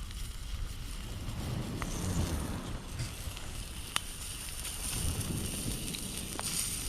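Wind buffeting the microphone as a steady low rumble, with a few sharp clicks about two seconds apart.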